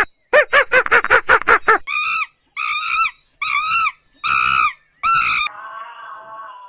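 Gelada baboons calling: a quick run of short yelping calls, then five longer, shrill screeching calls of about half a second each. Near the end a lower, steady moaning drone takes over.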